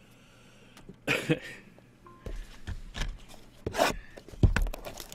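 Trading card packaging being handled: a few short bursts of crinkling and rustling, the first about a second in, with light knocks and thumps between them.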